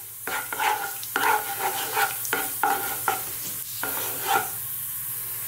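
Cumin seeds sizzling in hot groundnut oil in a small nonstick pan, tempered to infuse the oil, while a wooden spatula stirs and scrapes them with a stroke about every half second. The stirring stops near the end, leaving only the steady sizzle.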